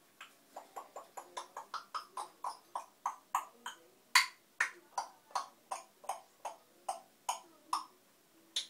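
Parrot giving a long run of short, sharp clicking calls, about five a second at first and then slowing to two or three a second. It stops just before the end.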